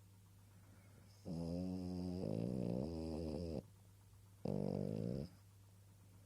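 A sleeping dog snoring on a pillow: one long snore of about two seconds whose pitch wavers, then a shorter one about a second later.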